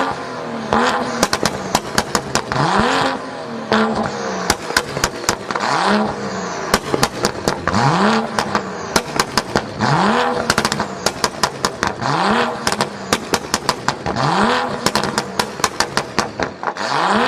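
BMW 435i's turbocharged 3.0-litre inline-six revved again and again, about every two seconds, through an Armytrix valved exhaust, with sharp pops and crackles as the revs fall.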